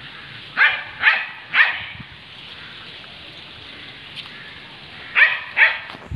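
Dog barking: three quick barks in a row, then two more near the end.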